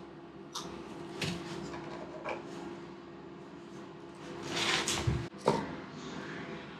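Plastic drain pipe and fittings being handled and taken apart for gluing: a few light knocks and clicks, a scraping rustle about four to five seconds in, then a sharp knock. A faint steady hum runs underneath.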